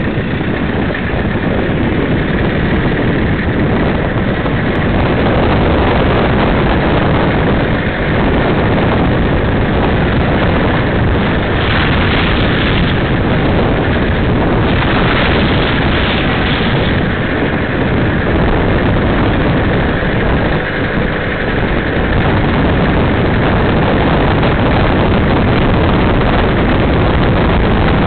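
Toyota Hilux 4WD engine running steadily under a loud, even rush of noise, with a brighter hiss swelling twice around the middle.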